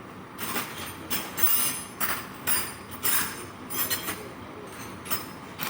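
Repeated metallic scraping and clinking strokes, about two a second, from work on the metal parts of a rusted power steering box.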